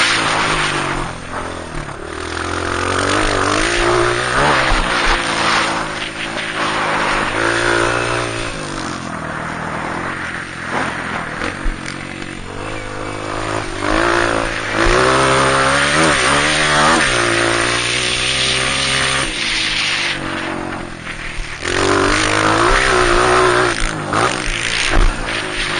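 Honda CRF230 dirt bike's four-stroke single-cylinder engine being ridden hard around a motocross track, revving up and dropping back over and over as the throttle opens and closes through turns and jumps. It is loudest just at the start, a little past the middle and again near the end.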